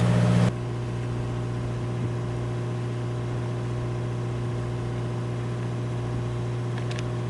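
Sailboat's inboard diesel engine running steadily under way, a low drone with a steady hum; its level drops a little about half a second in, then holds even.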